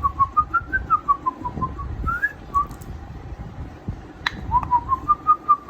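African grey parrot whistling a tune of short, quick notes that rise and fall, in two phrases with a pause between them. A sharp click comes in the pause.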